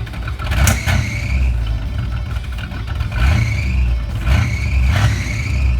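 Camaro engine idling with a steady low rumble. Four short, high-pitched chirps, each starting with a click, sound over it.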